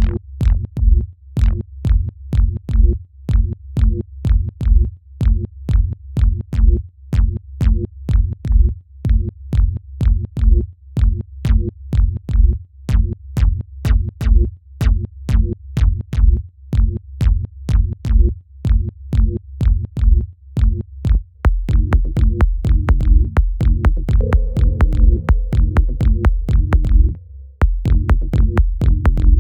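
Electronic dance track playing back: a drum-machine kick and bass loop with a steady beat. About two-thirds of the way in, the bass becomes continuous and fuller, and it drops out briefly near the end.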